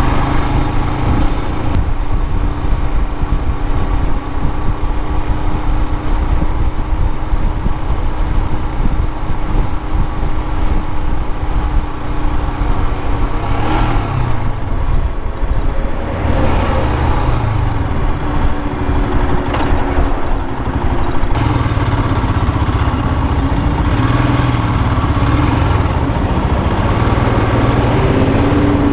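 Royal Enfield Himalayan's single-cylinder engine running steadily while the bike is ridden, with wind and road noise. The engine note shifts up and down for a stretch about halfway through.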